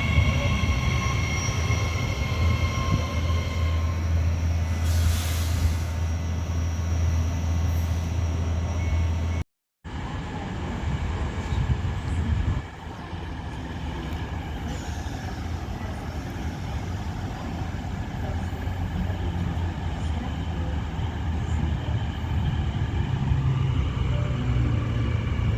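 Train sounds at a railway station: a steady low hum with high whining tones, and a brief hiss about five seconds in. After a short silent cut near the ten-second mark, a quieter steady train rumble.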